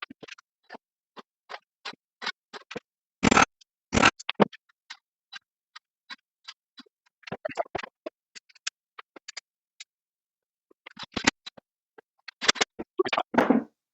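Irregular handling noise: a scatter of small clicks and ticks with several louder knocks, from plywood parts and tools being moved about on a workbench.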